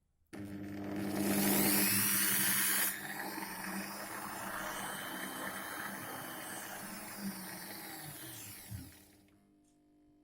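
Small electric motor running under an AC speed controller. It starts up a moment in and runs fast and loud for a couple of seconds. At about 3 s it drops to a lower, steady speed, then winds down and stops near the end.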